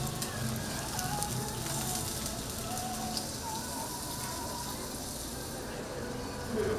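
Food sizzling on a hot griddle, a steady frying hiss that thins out near the end.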